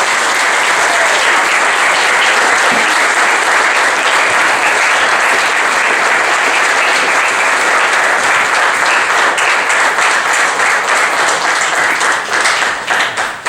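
Congregation applauding, a steady dense clapping that thins into scattered claps near the end.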